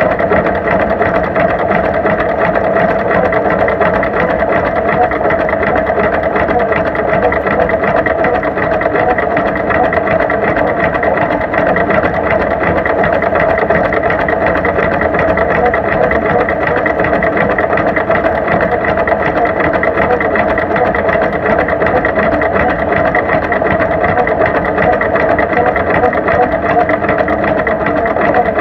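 1949 John Deere G tractor's two-cylinder engine running steadily at a constant speed, loud and unchanging throughout.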